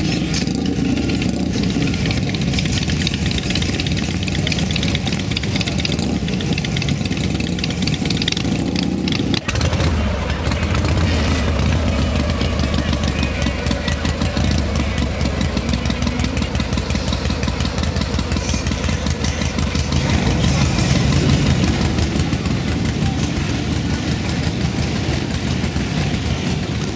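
Motorcycle engines running and idling, with voices in the background. About nine seconds in the sound breaks off sharply and resumes with a stronger, steady low engine rumble.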